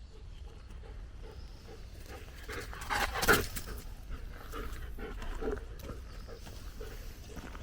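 A German shepherd close by, with a louder burst of sound from it about three seconds in, over soft repeated steps on the forest floor.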